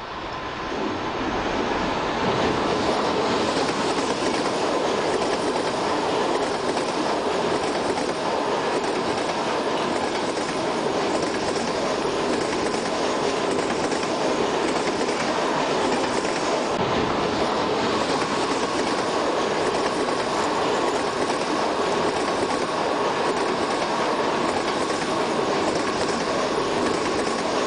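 Passenger train running past at speed: a continuous, even rumble of wheels on rail with a steady whine held throughout, building up in the first second or two.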